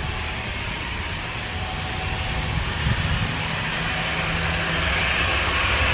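Airliner jet engines: a steady rushing noise that grows gradually louder toward the end, over a low rumble.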